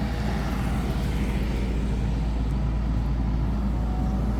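Crane engine running steadily with a low, even rumble.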